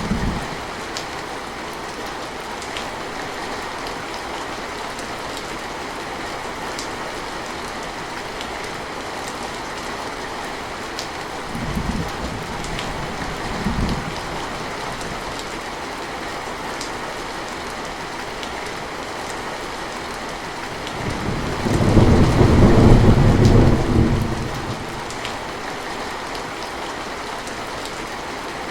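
Steady rain falling, with thunder. Two short, low rumbles come a little before halfway, and a longer, louder roll of thunder of about three seconds comes about three quarters of the way in.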